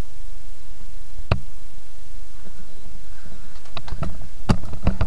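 A single sharp knock, then a cluster of light, irregular knocks and clicks near the end.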